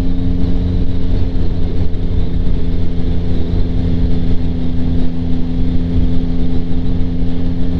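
2025 Yamaha MT-09's inline three-cylinder engine running at steady revs through a Kelpi Flanker aftermarket exhaust with the baffle fitted, heard from inside the rider's helmet. The pitch holds without revving up or down.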